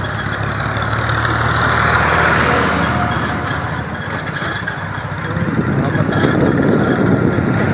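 A motor vehicle's engine running steadily under a dense rushing noise, growing louder about five and a half seconds in.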